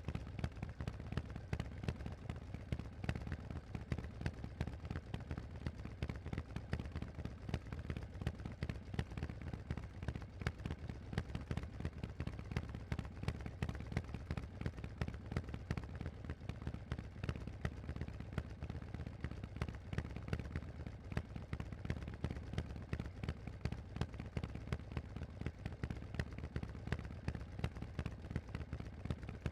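Harley-Davidson Forty-Eight's air-cooled 1200 cc V-twin running through Vance & Hines aftermarket exhausts: a steady, deep stream of rapid exhaust pulses at an even engine speed.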